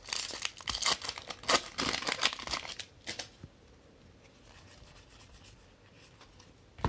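A trading-card pack wrapper being torn open and crinkled for about three seconds, then a quiet stretch and a single short tap near the end.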